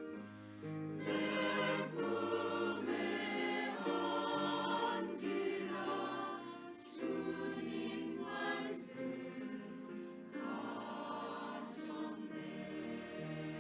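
Church choir singing a praise song in sung phrases over held low notes, with brief breaks between phrases.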